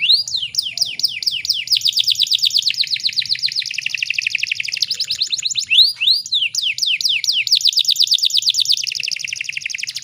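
Canary singing: long rapid trills of quickly repeated high down-slurred notes, broken near the start and again around the middle by a few slower rising swoops before the fast rolling trill resumes.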